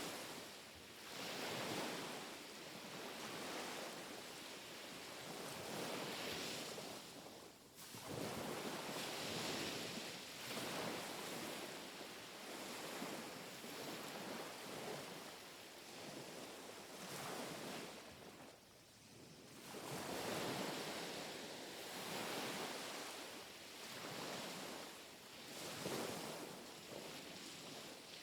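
Small, gentle sea waves lapping and washing onto the shore, each wash swelling and fading every few seconds, with a couple of brief lulls between sets.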